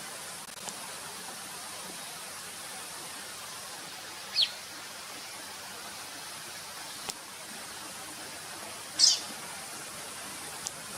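Lined seedeater giving two short, sharp calls that fall in pitch, about four and a half seconds apart, the second louder, over a steady background hiss, with a few faint clicks.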